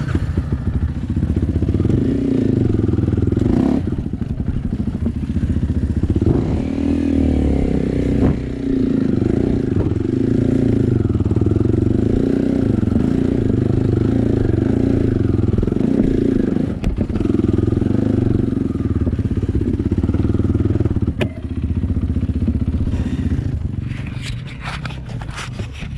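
Dirt bike engine running under load on an off-road trail, its pitch rising and falling as the throttle opens and closes, with some clatter over rough ground. It eases off near the end.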